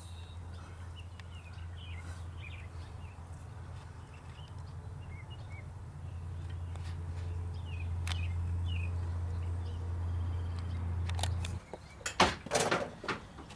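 A steady low hum that cuts off suddenly near the end, followed by a few sharp knocks; faint bird chirps are heard in the first half.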